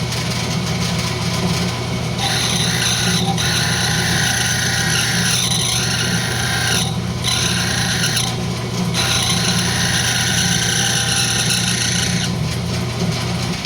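Wood lathe running with a steady hum while a tool takes light cuts off a spinning rosewood tenon, a rasping scrape that comes in several passes with brief pauses between them, the lathe running down near the end.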